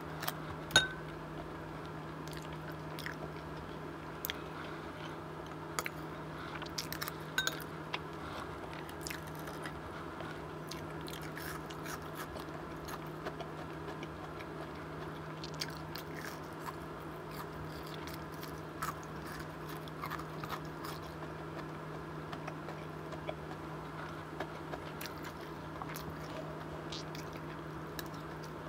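Close-miked chewing and biting of chicken curry with rice and fried chicken katsu: wet mouth sounds with some crunch. A few sharp clinks of a metal spoon stand out, the loudest about a second in, over a steady low hum.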